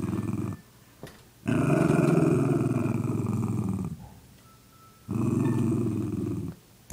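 A dog growling low and rough in three long growls with short pauses between them, guarding her biscuit as someone tries to take it.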